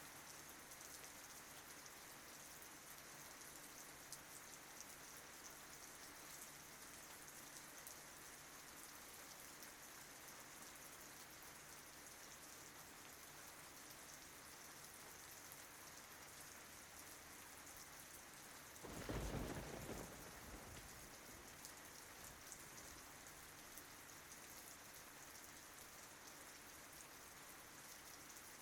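Faint, steady rain falling on tree leaves, with fine drop ticks. About nineteen seconds in, a brief low rumble swells and fades over a second or two.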